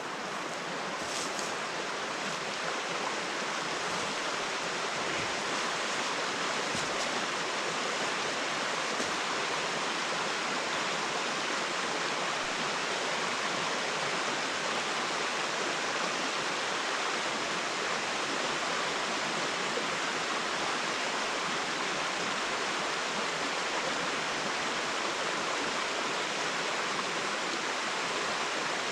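Rushing water running steadily as one continuous, even hiss, growing a little louder in the first couple of seconds.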